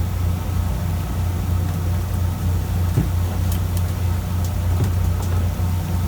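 A fishing boat's engine running steadily, a constant low hum, with a faint knock about halfway through.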